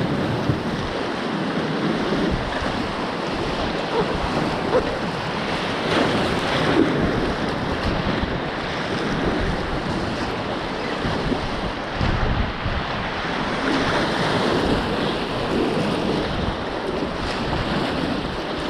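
Steady rush of river water running through a riffle, with wind buffeting the microphone in uneven low gusts.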